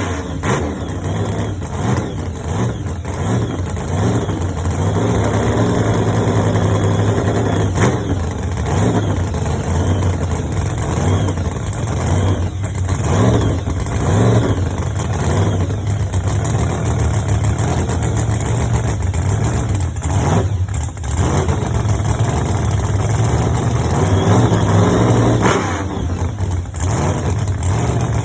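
Engine of a Model A fuel altered pickup drag truck running loud, idling and revved up and back down several times.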